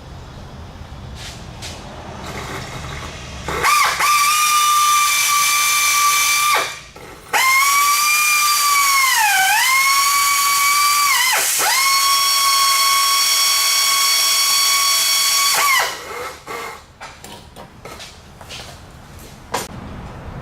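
Drill spinning with a steady high whine, drilling out a broken exhaust manifold bolt so an extractor can be fitted. It starts about four seconds in, stops briefly, then drops in pitch twice as the bit bites under load, and cuts off a few seconds before the end.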